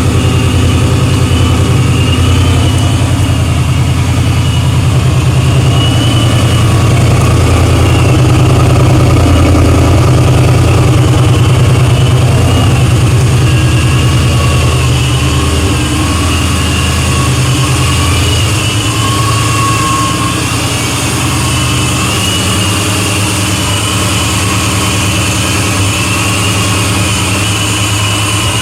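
Ford Mustang GT's 4.6 L two-valve V8 idling through a newly fitted SLP Loudmouth 1 exhaust, a raspy, loud exhaust note. It swells slightly around the middle and then settles a little lower.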